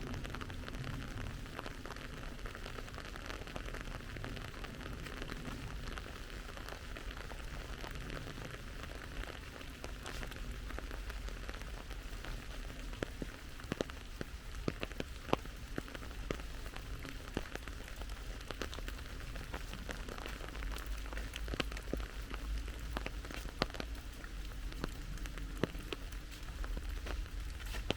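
Steady rain falling, with sharp close drop ticks scattered through it that become frequent from about ten seconds in.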